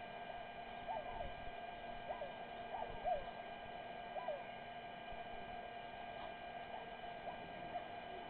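Short, faint chirping animal calls, several in the first half and fewer later, over a steady electrical hum.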